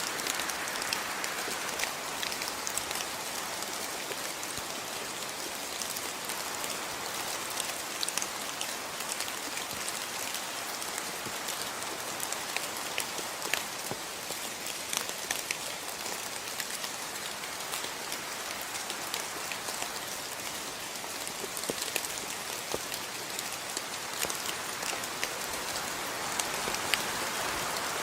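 Steady rain falling, with a constant hiss and many separate drops tapping close by.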